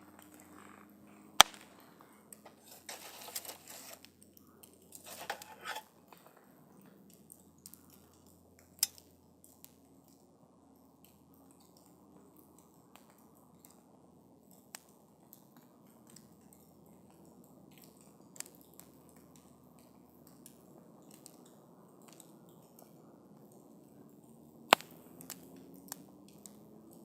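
Wood campfire burning and crackling, with scattered sharp pops and snaps; three stand out as loudest, near the start, about nine seconds in and near the end. Two brief hissing spells come a few seconds in, over a low, steady rush of flame.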